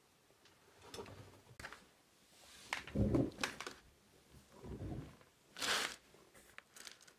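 Household handling sounds: a series of rustles, scrapes and soft knocks, with a heavier thump about three seconds in, another around five seconds, and a short sharp rustle or scrape just before six seconds.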